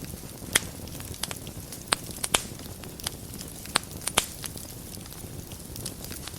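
Wood fire in a fireplace crackling over a soft, steady low rumble, with several sharp pops through the first few seconds and fewer near the end.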